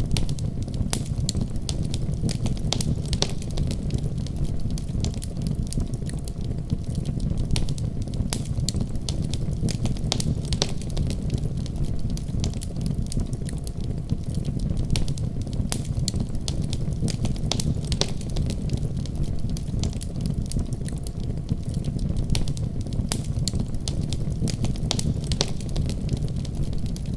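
Wood fire burning in a fireplace, crackling with frequent sharp snaps and pops over a steady low rumble of the flames.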